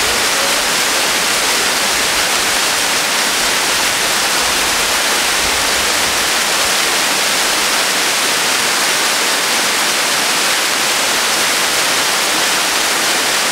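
Waterfall: water cascading with a steady, unbroken rush.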